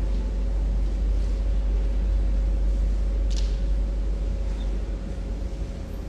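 Steady low rumble and hum of background room noise, with a faint click about three and a half seconds in.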